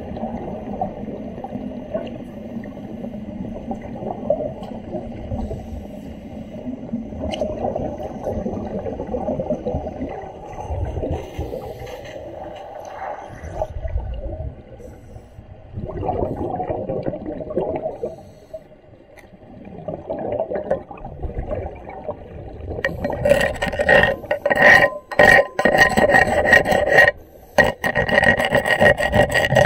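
Underwater work: scraping and rubbing on metal for most of the stretch, then from about three-quarters of the way in a loud, irregular crackling with a steady high tone, typical of an underwater wet-welding arc.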